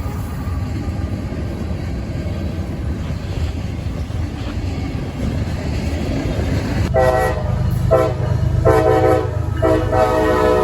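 Diesel locomotive leading a freight train with its engine rumbling steadily. About seven seconds in, its multi-chime air horn sounds two short blasts and then a long one that carries on, a horn salute.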